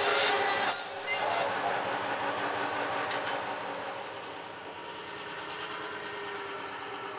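Steel wheels of a passing passenger train squealing loudly, the squeal dying away about a second and a half in. After that a quieter, steady running sound from the Fairbanks-Morse H-12-44 switch locomotive's opposed-piston diesel engine.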